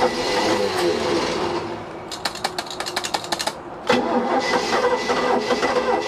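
Chevy 350 V8 marine engine running unevenly, fading out about two seconds in. A rapid, even chugging of starter cranking follows, then it fires with a sudden burst near four seconds and runs again.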